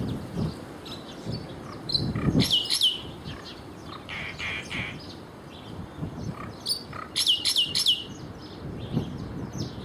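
Small birds chirping: quick high chirps that sweep downward, two about two and a half seconds in and a fast run of three or four about seven and a half seconds in, with fainter chirps between. A low rumble is also heard, strongest at the start and just after two seconds.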